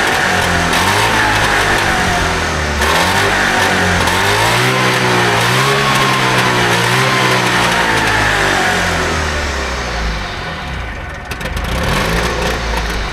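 Trabant 601's two-cylinder two-stroke engine running and being revved, its speed rising and falling. It dips briefly about ten seconds in, then picks up again.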